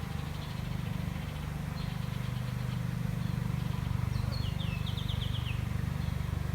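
Steady buzzing of a honey bee swarm flying close around, the swarm moving into a swarm trap. About four seconds in, a bird gives a quick run of high chirps that step downward.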